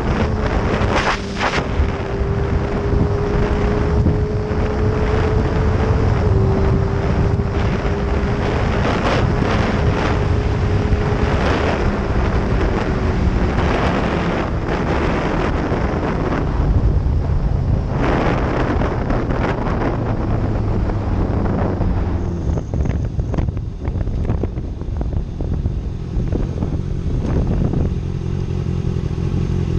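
Motorcycle riding along with its engine running at a steady cruise, the engine note holding steady through roughly the first half, with wind rushing over the microphone.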